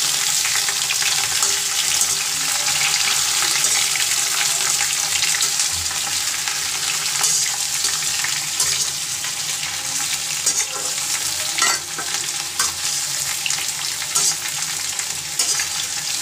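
Cut raw jackfruit pieces sizzling steadily as they fry in hot oil in a kadhai, while a spatula stirs them, with a few sharp knocks of the spatula against the pan in the second half.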